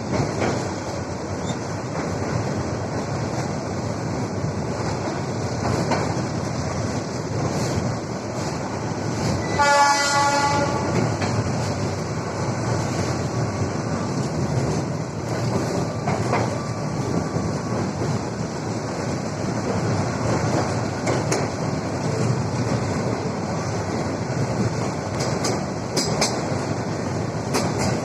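Train running on the rails, a steady rumble and rattle with occasional wheel clicks. About a third of the way in, a horn sounds once for roughly a second.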